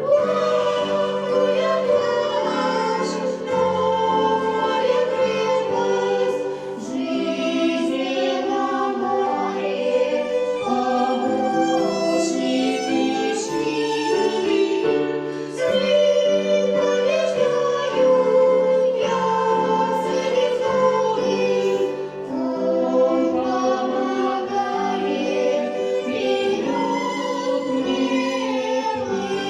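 Children's choir singing a Christian children's song, with held melodic notes over keyboard accompaniment.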